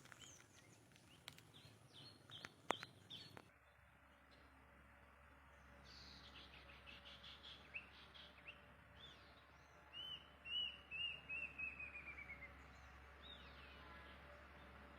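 Faint outdoor birdsong: scattered short chirps, and a little past the middle a run of about ten whistled notes that step steadily down in pitch. A few sharp clicks and knocks come in the first few seconds.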